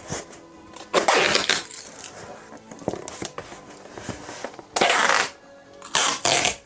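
Packing a parcel by hand: three short, harsh rustling or scraping bursts, with quieter handling clicks between them.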